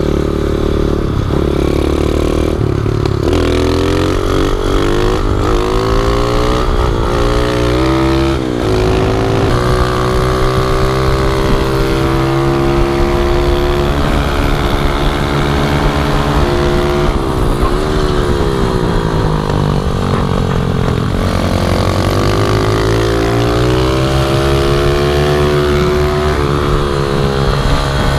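Pit bike's small single-cylinder engine revving hard, its pitch climbing and then dropping sharply over and over as the throttle is worked around a track.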